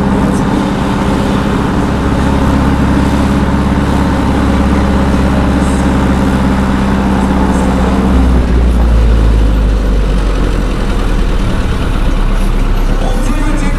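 Heavy tractor diesel engine running loud and steady; its note changes about eight seconds in, settling lower and deeper.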